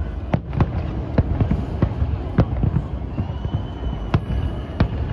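Distant aerial fireworks shells bursting in quick succession: an irregular run of sharp bangs over a continuous low rumble. A faint thin whistle joins about three seconds in.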